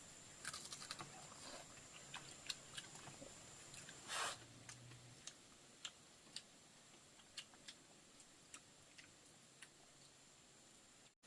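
Faint eating sounds: scattered small clicks and crunches of people chewing crisp grilled rat meat, with one louder crunch about four seconds in.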